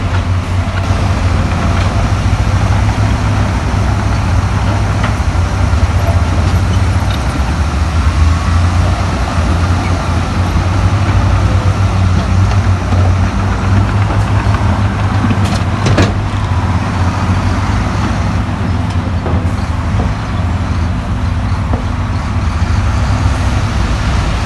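Heavy diesel earthmoving machinery running steadily with a deep engine drone, and a sharp knock about sixteen seconds in.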